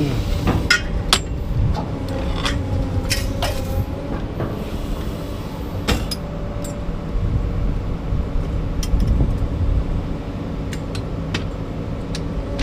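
A vehicle engine running steadily, with scattered sharp metallic clanks and knocks over it.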